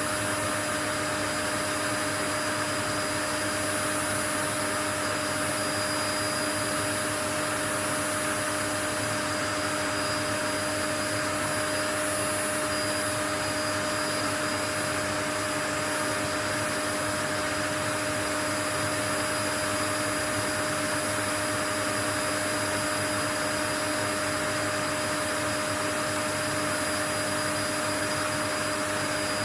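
Steady white noise: an even, unbroken hiss with a few faint steady tones running through it.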